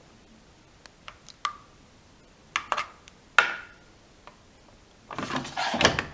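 Privileg Dynamic 7420 washing machine being handled: a series of separate sharp clicks and knocks, some with a short metallic ring, then a rougher clatter lasting about a second near the end.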